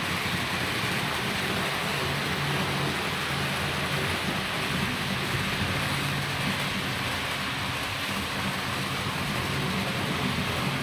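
Roco HO-scale model train running on the layout track: a steady rolling hiss from the wheels on the rails, with a low motor hum under it.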